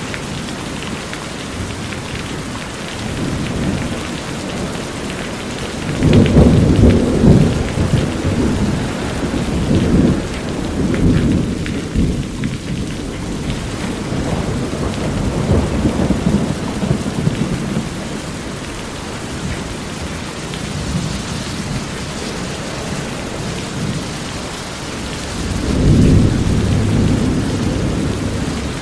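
Steady heavy rain pattering on a corrugated metal roof, with rolls of thunder: a loud low rumble about six seconds in lasting a couple of seconds, weaker rumbles around ten and sixteen seconds, and another loud roll near the end.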